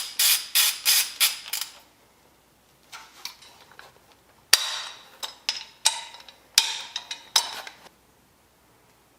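Mechanical clatter: a run of quick, sharp rasping clicks about three a second, then fainter clicks, then a louder run that starts with a sharp knock about halfway through and stops short of the end.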